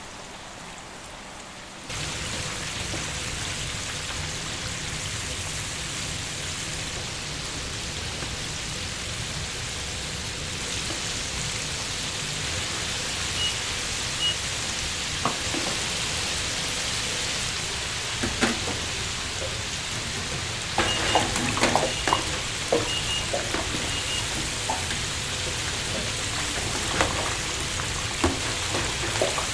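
Chicken pieces deep-frying in hot oil: a steady, dense hiss and crackle that starts abruptly about two seconds in. Scattered clinks and knocks of kitchen tools join from the middle on, and short high electronic beeps sound twice, then four times near the end.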